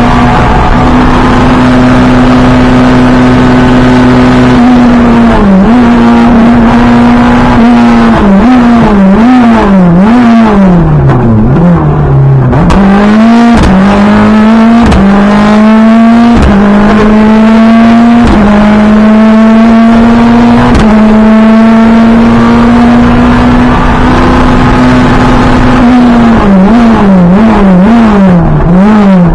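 Renault Clio rally car's engine heard from inside the cabin, running at high revs with several quick upshifts, each a sudden drop in pitch followed by a climb. About eight seconds in, and again near the end, the revs fall in a string of throttle blips: downshifting under braking for a corner.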